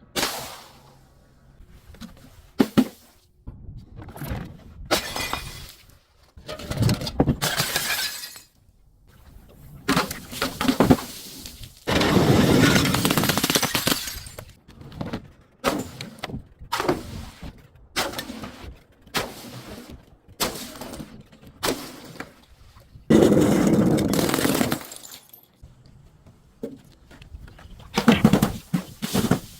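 Glass bottles being broken and crushed: a string of irregular crunching, shattering bursts, with two longer stretches of continuous crunching about twelve and twenty-three seconds in.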